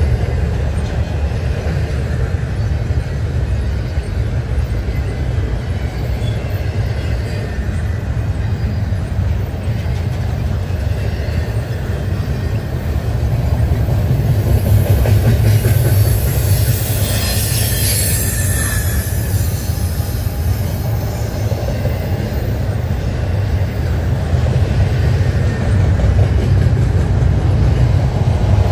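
CSX intermodal freight train's double-stack container well cars rolling past, their steel wheels making a steady, loud low rumble on the rails, with a brief high-pitched wheel squeal about midway.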